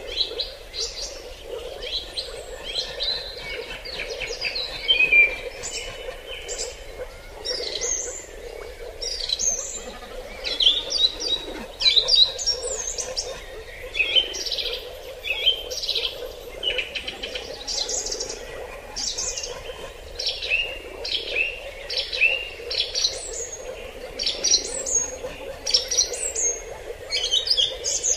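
Many forest birds chirping and calling in short, high notes, one after another throughout, over a steady lower hum of background ambience.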